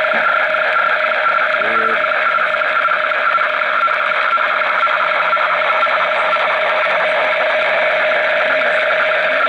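Realistic DX-200 shortwave receiver tuned near 9 MHz, playing an unidentified steady, dense noisy signal with two constant tones running through it. A brief low hum-like tone sounds about two seconds in.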